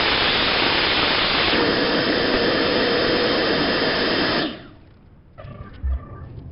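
A loud electric shop machine runs with a steady rushing noise. About one and a half seconds in a humming tone joins it, and it cuts off sharply about four and a half seconds in. A few light knocks and one low thump follow.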